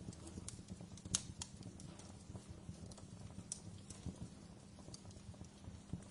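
Wood fire in a fireplace crackling: scattered small pops and snaps over a low steady rumble, with one sharper pop about a second in.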